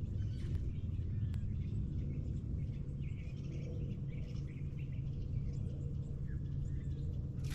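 Birds chirping faintly in short calls over a steady low rumble.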